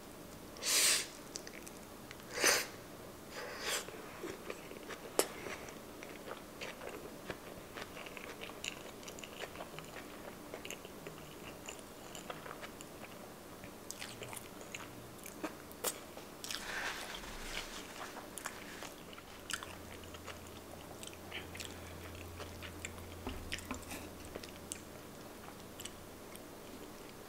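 Close-miked chewing of a mouthful of sushi roll: many small wet mouth clicks and smacks. There are a few louder short mouth sounds in the first four seconds.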